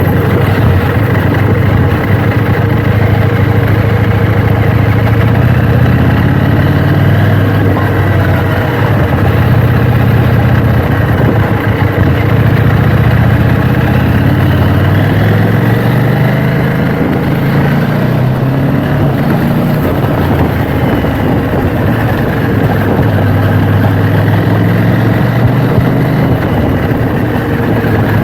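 KTM 790 Duke's parallel-twin engine running as the motorcycle rides, its pitch drifting slowly up and down with changes in speed.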